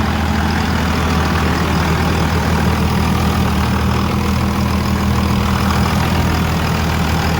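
Second-gen Cummins 5.9-litre inline-six turbodiesel idling steadily, warming up just after a cold start, having not run for over six months.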